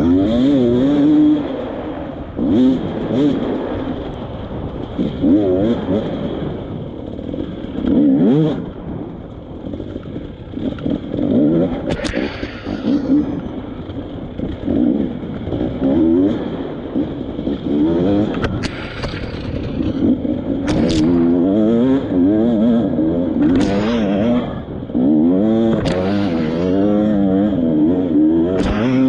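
Dirt bike engine revving in repeated short blips, its pitch rising and falling, with a few sharp knocks along the way.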